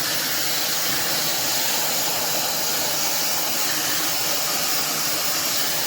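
Fentgo high-speed brushless hair dryer (110,000 RPM motor) running steadily, a constant high-pitched rush of blown air.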